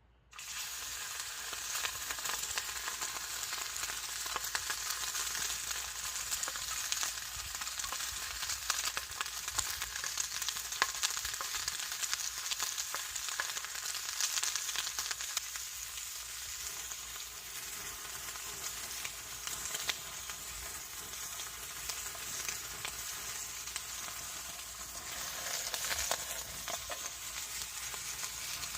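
Bacon-wrapped Camembert frying in a pan: a steady sizzle full of small pops, starting abruptly.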